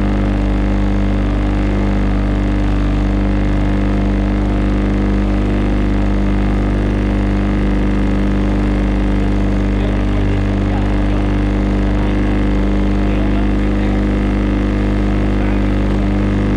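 Motorboat engine running steadily at an even speed, heard from on board, with a constant low hum.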